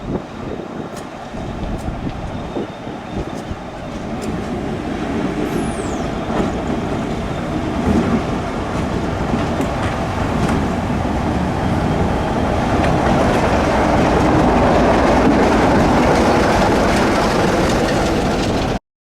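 A train approaching, its running noise growing steadily louder before cutting off suddenly near the end.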